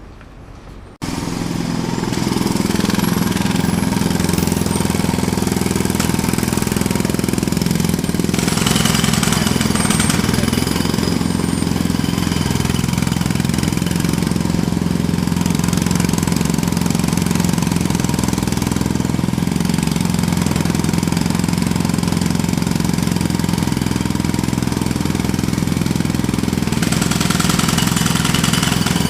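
A jackhammer starts abruptly about a second in and keeps up a loud, steady, rapid hammering.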